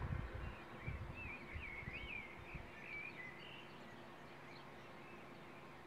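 A songbird singing a run of short warbling phrases, over an irregular low rumble that dies away about three seconds in, leaving a faint steady hiss.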